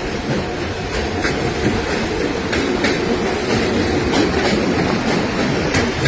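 Train running on the rails: a steady rumble with sharp clicks every second or so as the wheels pass over rail joints.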